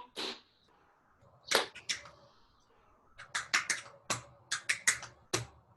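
Tap shoes striking the floor in sharp, separate taps: a single tap, then three quick taps about a second and a half in, then a rapid run of about a dozen taps during the last half of the stretch.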